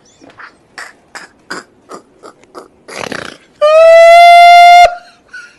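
Parrot making short clicks and chirps, a harsh squawk about three seconds in, then one loud whistled note lasting over a second that cuts off suddenly.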